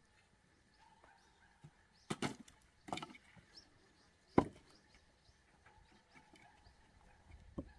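Axe chopping firewood: a few sharp, separate chops with pauses between, the loudest a little past the middle.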